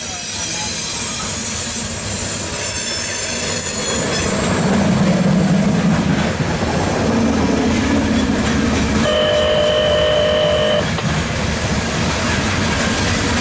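CSX coal train's hopper cars rolling steadily past, wheels rumbling on the rails, with a thin high wheel squeal a couple of seconds in. About nine seconds in, a locomotive horn sounds once, a chord held for under two seconds.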